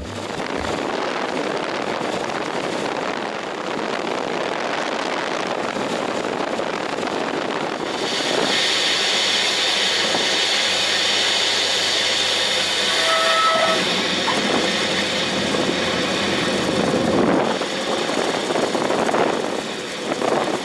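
Cessna 182 cabin noise on final approach: the engine and airflow make a steady rush that grows brighter and a little louder about eight seconds in. A brief high tone sounds about two-thirds of the way through.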